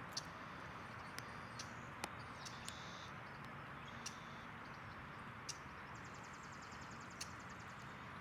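Backyard ambience with a steady hiss, about nine sharp, irregular clicks and faint high chirps, typical of birds at a feeder.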